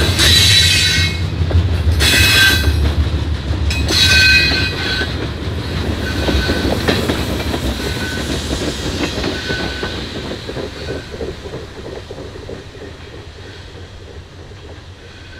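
Freight train cars rolling past, wheels clattering over the rails with bursts of high-pitched wheel squeal in the first few seconds, then fading away as the last car goes by.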